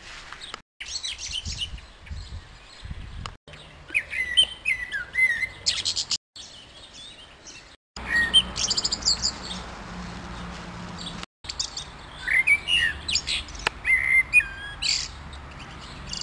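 Songbirds chirping and singing in quick, varied phrases of rising and falling whistles. The sound cuts out abruptly for a moment several times.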